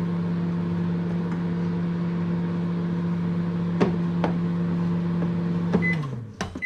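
Microwave oven running with a steady hum, two light clicks in the middle; near the end it beeps and the hum winds down as the cooking cycle ends.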